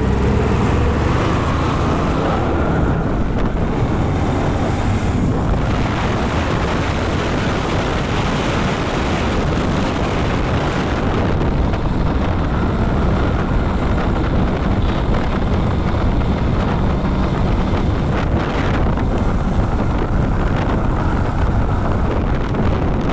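Motorbike riding noise: steady wind rush over the microphone with the engine and road noise underneath.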